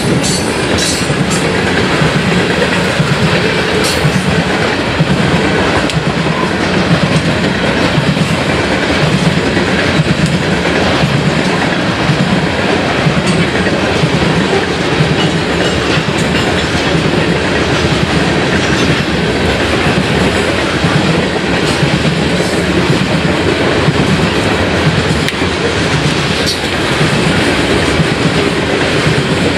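Loaded coal hopper cars of a freight train rolling past close by: a loud, steady rumble of steel wheels on the rails.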